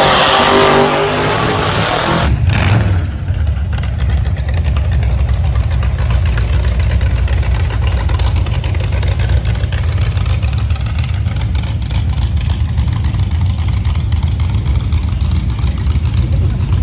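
Gasser drag car engine revving loud with sweeping pitch. After a cut about two seconds in, a big engine idles with a deep, uneven rumble.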